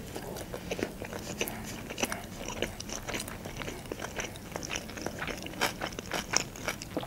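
A woman chewing a mouthful of salmon sushi roll: many soft, wet mouth clicks and smacks.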